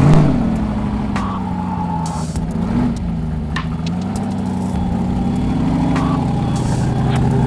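Formula Offroad car's custom-built 700-horsepower engine running under load, its pitch rising and falling as it revs, with a few sharp knocks over it.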